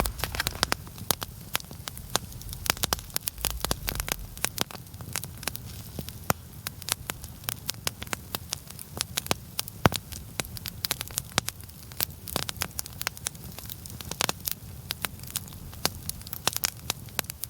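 Larch-wood campfire crackling, with a steady hiss and many sharp, irregular pops and snaps.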